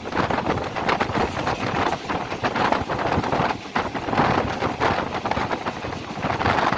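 Passenger train running on the line, a dense clatter of wheels and carriages with rushing noise and many sharp knocks.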